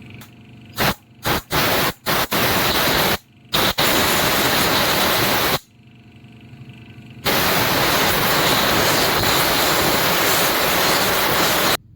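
Air blower blowing dust off brush cutter clutch parts: a few short blasts of air, then longer ones lasting a few seconds each, every one cutting off sharply.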